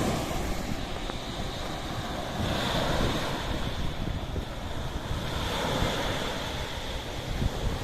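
Sea waves washing in, swelling twice, with wind rumbling on the microphone.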